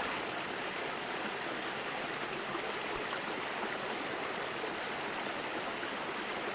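Creek water running steadily, an even rushing of flowing water.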